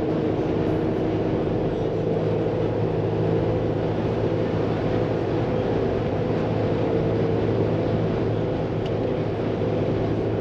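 Jeep JL Rubicon on 37-inch Nitto Trail Grappler mud-terrain tires cruising at highway speed. It makes a steady, even drone of tire and engine noise with constant low hums, with no change in speed.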